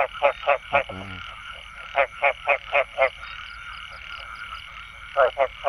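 Frogs croaking in bouts of quick repeated croaks, about four a second, with a pause between bouts.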